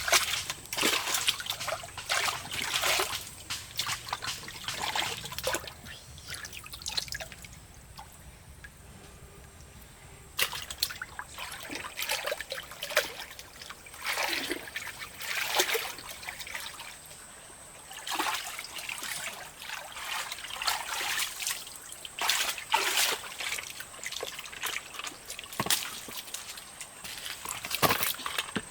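Water trickling and splashing in irregular bursts, with a quieter lull about a third of the way through.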